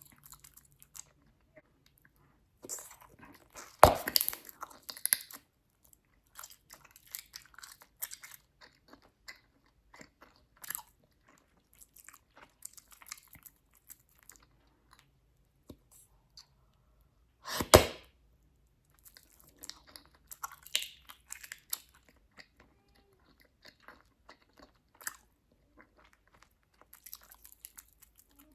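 Bubblegum chewed close to the microphone, a steady run of small snapping clicks, with two loud pops as bubbles burst, about four seconds in and again around eighteen seconds.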